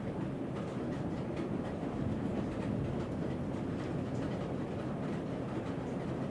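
Thunder rolling on in a low, steady rumble with no sharp crack.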